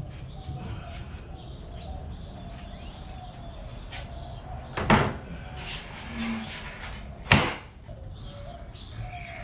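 Two sharp knocks about two and a half seconds apart, with birds chirping in the background.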